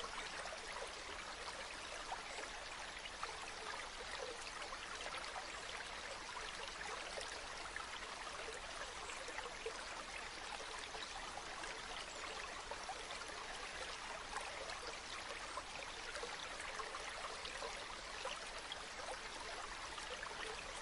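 Running water flowing and splashing: a steady rushing hiss with fine droplet crackle, carried mostly in the upper range with little low rumble.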